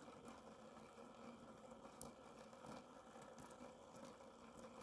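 Near silence with faint, scattered crackles and ticks from the small twig fire burning in a Kelly Kettle's base, one slightly sharper tick about two seconds in.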